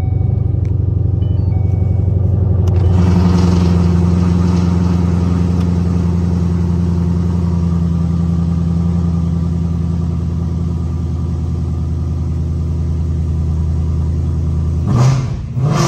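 Ford Mustang's engine idling steadily just after being started, a low even rumble with a rougher, hissier layer from about three seconds in. Near the end there is a brief louder swell.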